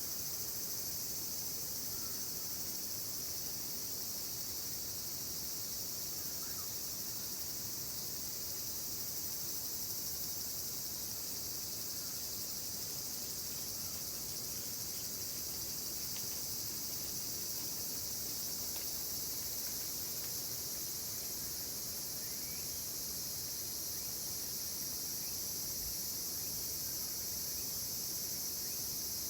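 Dense chorus of summer insects, a steady shrill high-pitched buzzing that holds at an even level without pause.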